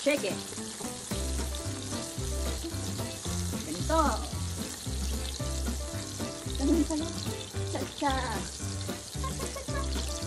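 Shrimp tempura deep-frying in oil in a stainless steel pan, a steady sizzle, under background music with a steady beat.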